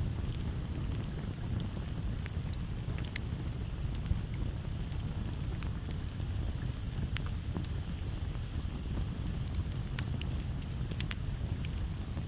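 Campfire burning, with frequent short sharp crackles and pops over a steady low rumble. Crickets chirr steadily in the background as a thin high-pitched hum.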